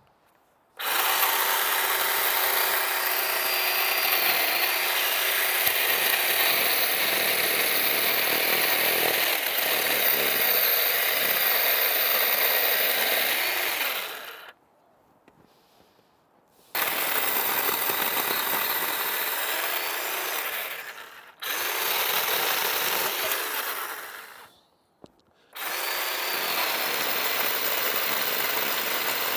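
Black and Decker LCS1020 20V MAX battery chainsaw cutting frozen wood in four runs, each starting and stopping sharply as the trigger is pressed and let go. The first run is the longest, about thirteen seconds.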